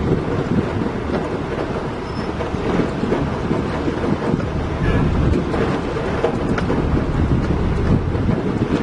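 Heavy diesel machinery running with a steady low rumble, and wind buffeting the microphone.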